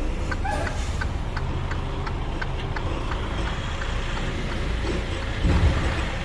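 Truck's diesel engine running low and steady in the cab, with the hazard-flasher relay ticking about twice a second. A louder low rumble swells briefly about five and a half seconds in.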